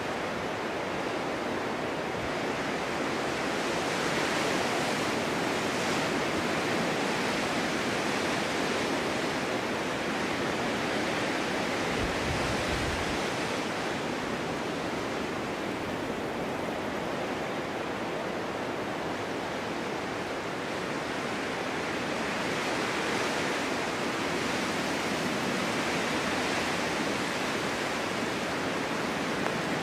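Winter snowstorm wind blowing steadily, a dense hiss that swells in slow gusts about four seconds in and again past twenty seconds.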